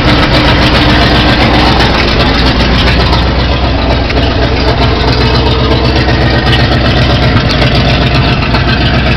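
Big-block Chevrolet V8 idling steadily, with the clutch noise that the owner is demonstrating mixed into its running.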